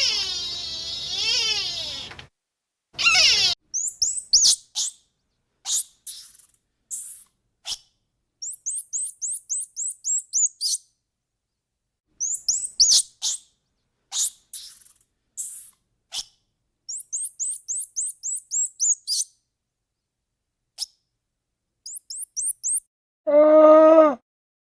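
A small bird chirping in quick runs of short, very high notes with pauses between them. A cat's meow trails off in the first two seconds, and a cow starts to moo near the end.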